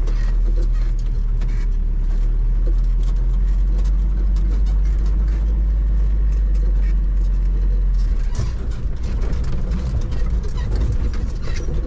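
Land Rover Defender diesel running under way, heard from inside the cab: a steady low drone with frequent knocks and rattles, turning rougher and more uneven about eight seconds in.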